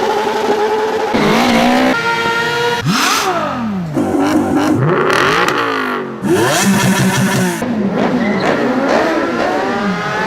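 Superbike engines revving hard, the pitch repeatedly climbing and dropping, with several abrupt switches from one engine sound to another.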